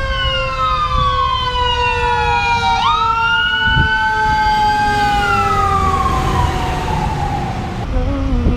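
Several emergency-vehicle sirens wailing at once, their pitches gliding slowly down and up, over a steady low rumble. The sirens fade out near the end.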